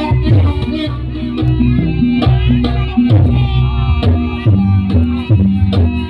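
Live jaranan music: hand drums beating a driving rhythm over a low, shifting melody line and pitched percussion.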